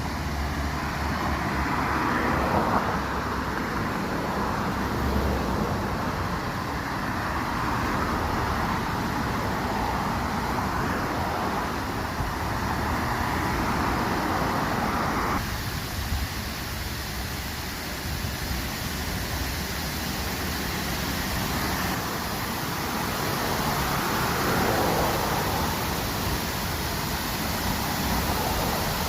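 Waterfall: a steady rushing of falling water, which changes abruptly about halfway through to a slightly thinner rush.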